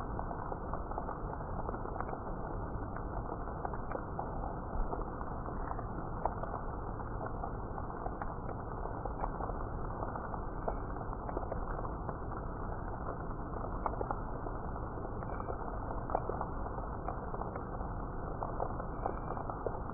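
Steady rainfall, a dense even hiss dotted with the ticks of single drops, with a few faint short high chirps here and there.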